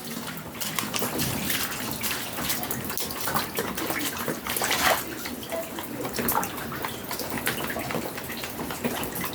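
Rainwater pouring and splashing into rooms left open by a removed roof, a steady rush of running water with many scattered drips and splashes.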